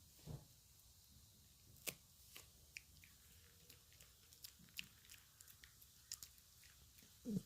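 Small Maltese dog chewing a crunchy pork chew stick: faint, irregular crunches and clicks of teeth on the chew, a few each second, with a louder thud near the end.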